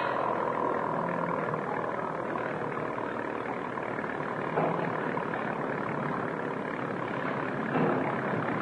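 An engine running steadily, a dense, even drone on an old, hissy film soundtrack.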